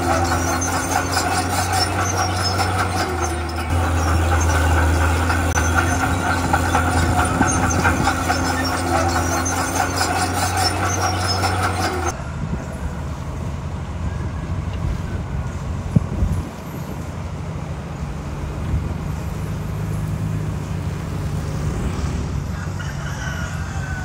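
Heavy diesel earthmoving machinery running, with a strong steady engine drone overlaid by high squealing and clanking. About halfway through it switches abruptly to a lower, duller engine sound.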